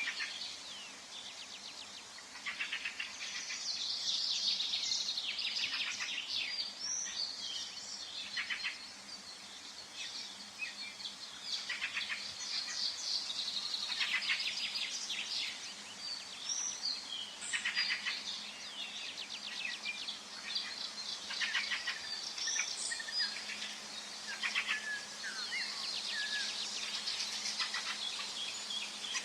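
Several forest birds singing at once, a mix of rapid trills and short high chirps that overlap and come and go throughout.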